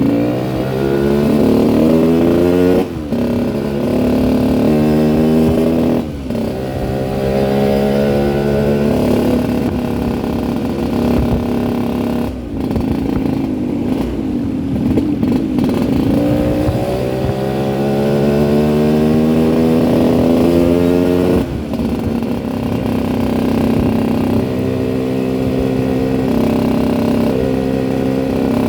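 Yamaha RX-King's two-stroke single-cylinder engine running under way. Its pitch climbs, then drops sharply four times with a brief dip in loudness, as the bike goes through gear changes. The rough note is the one the owner calls 'ngorok' (snoring).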